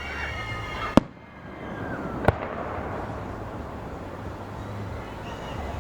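Fireworks display: aerial shells bursting with sharp bangs, about a second in, again just over a second later, and once more at the end. Thin whistling tones slide over one another before the first bang and again just before the last.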